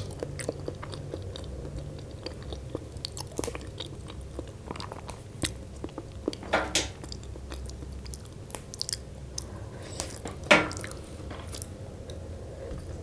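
Close-miked chewing and crunching of a spicy Lao rice-noodle salad and raw herbs, with many small clicks and two louder crunches or snaps about six and a half and ten and a half seconds in, as fresh herb stems are torn off a bunch.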